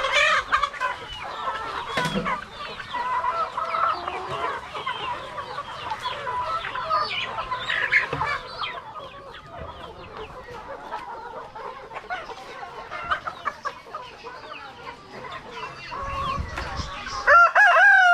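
A flock of Rhode Island Red chickens clucking, many short calls overlapping. Near the end a rooster starts a long, loud crow.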